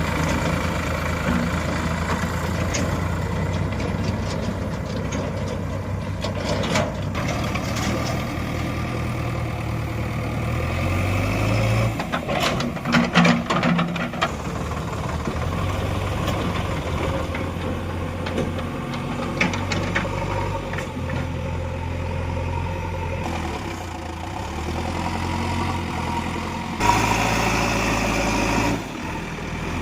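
Heavy diesel engine running steadily near idle, its pitch shifting about a third of the way through, with a cluster of sharp clattering knocks around the middle and a louder, harsher stretch near the end.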